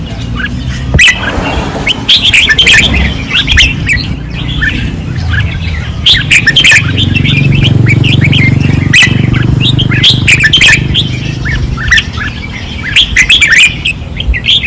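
Caged red-whiskered bulbuls singing hard, in quick repeated chirping phrases. A low steady rumble runs underneath from about the middle of the stretch until near the end.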